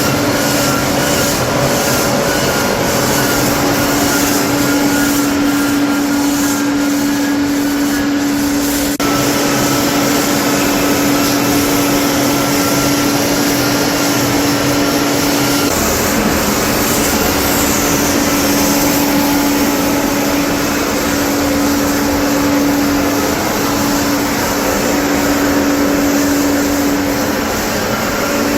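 Steady machine drone with a constant hum, held at an even level, broken briefly about nine seconds in.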